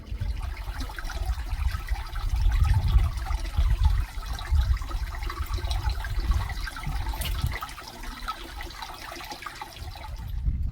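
A storm: heavy rain pouring down, with gusts of wind buffeting the microphone in an uneven low rumble.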